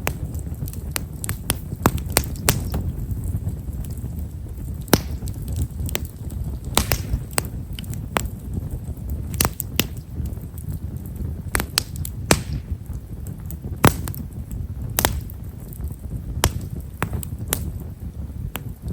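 Wood fire of Japanese stewartia (himeshara) logs burning with a low steady rumble of flame and frequent small, sharp crackles and pops at irregular intervals.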